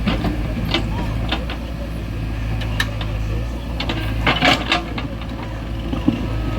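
Diesel engine running steadily, with a few sharp clanks and knocks over it, the loudest cluster about four and a half seconds in.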